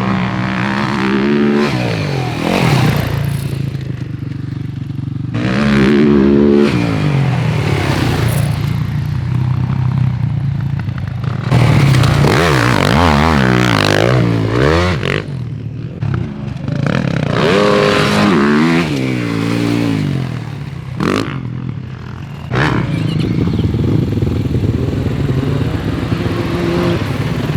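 Pit bike engines revving hard and backing off over and over as they ride the dirt track, the engine pitch climbing and dropping several times.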